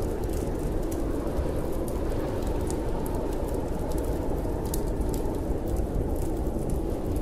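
Steady storm wind with a faint whistling tone, and scattered sharp crackles and pops of a wood fire burning in a fireplace.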